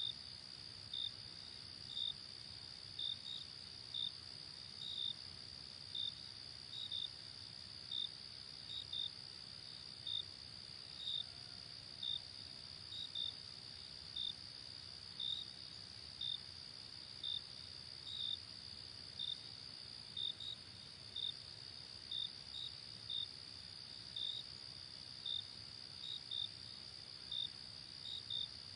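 Night insect chorus: a steady high-pitched trill with crickets chirping over it in short chirps, about one or two a second, and a faint low rush beneath.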